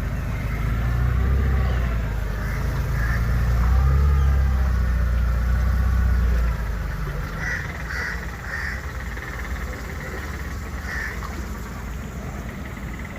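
A boat's motor runs with a steady low rumble that drops away suddenly about six and a half seconds in. After that, short calls from birds come in small groups.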